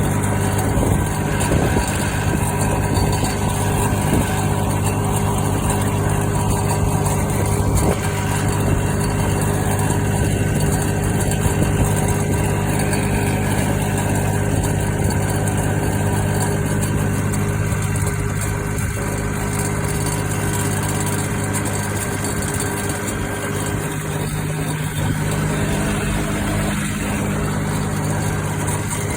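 Kubota D600 three-cylinder diesel of a 782D garden tractor running steadily at an even speed while the tractor is driven, the engine still cold from a cold start. Its pitch shifts slightly near the end.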